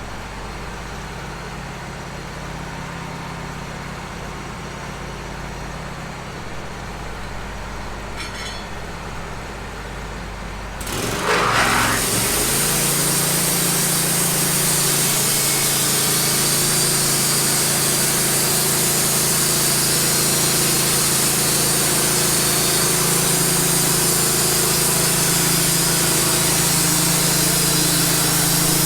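Wood-Mizer LT15 band sawmill's engine idling, then throttled up about eleven seconds in as the band blade starts sawing steadily through a cedar log, much louder from then on.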